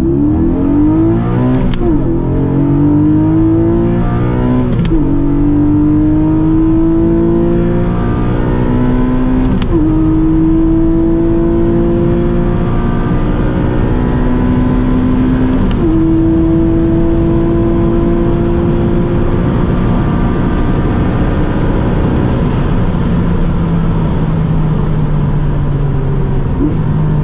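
Porsche 718 Cayman GTS 4.0's naturally aspirated flat-six accelerating hard, heard from inside the cabin. The engine note climbs steadily through each gear and drops sharply at four upshifts of the manual gearbox. Near the end it settles into a lower, steadier drone at high speed.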